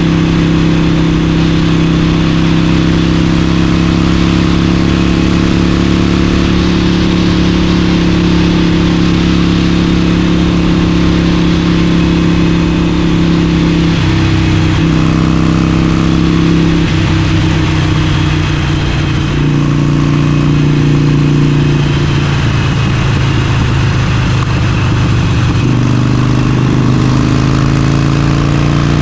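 Harley-Davidson Forty-Eight's 1200 cc air-cooled V-twin running under way through an aftermarket exhaust, with wind rush. The engine note holds steady for about half the ride, then changes pitch several times as the throttle and gears change.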